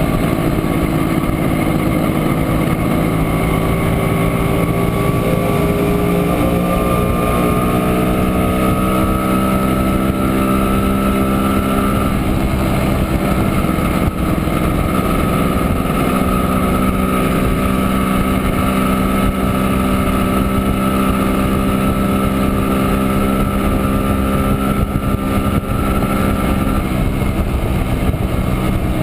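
Two-stroke single-cylinder engine of a 1967 Montesa Impala Comando 175 cc motorcycle under way, heard from on board. Its pitch climbs steadily over the first several seconds as it speeds up, then holds at a steady cruise.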